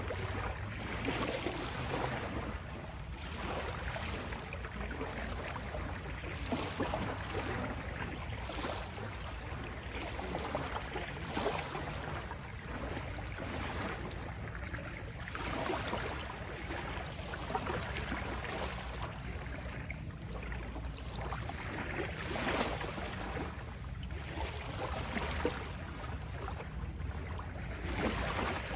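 Small sea waves lapping and washing ashore, a new wash rising every few seconds over a steady low rumble.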